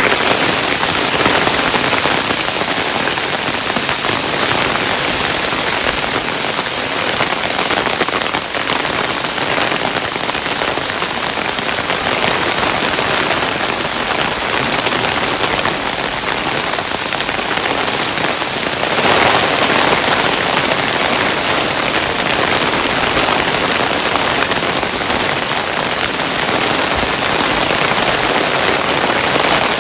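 Hailstones falling, a dense, steady hiss of many small impacts on a surface, swelling a little about two-thirds of the way through.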